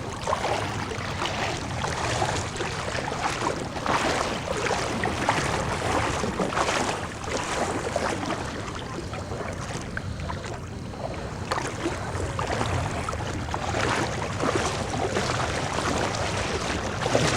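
Legs wading through knee-deep floodwater: irregular sloshing and splashing steps, with some wind on the microphone.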